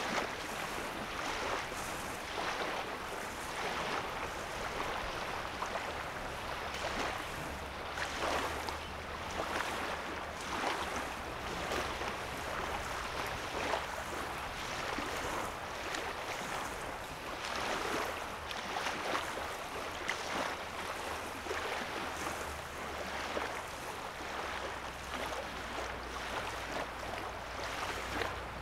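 Small waves lapping on a lake shore, a soft wash that swells and eases every second or two. A low steady hum comes in under it partway through and again near the end.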